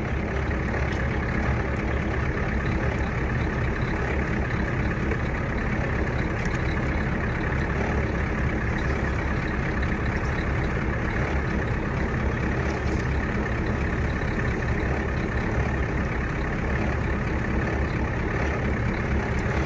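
Truck engine idling steadily: an even, low rumble that holds the same level throughout.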